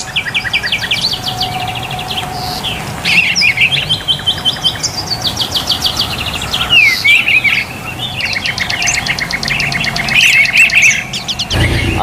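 Several songbirds singing at once, with fast trills and runs of rapidly repeated high chirps overlapping one another.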